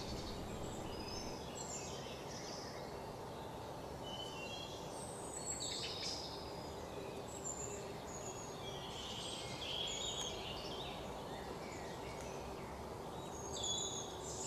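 Wild birds giving short high chirps and calls at irregular moments, over a faint steady outdoor hiss.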